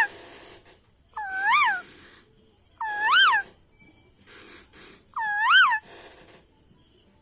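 A talking parrot calling "maa" three times, about a second and a half apart; each call rises and then falls in pitch.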